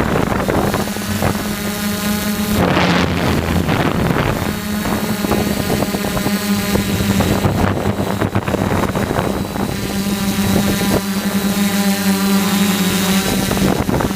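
DJI F450 quadcopter's motors and propellers humming in flight, the pitch shifting a few times as the throttle changes, with wind buffeting the microphone.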